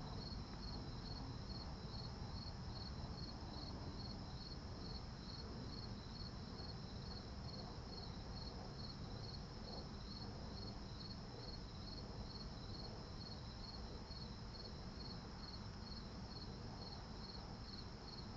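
Crickets chirping in an even rhythm, roughly two and a half high chirps a second, over a steady higher insect trill; faint.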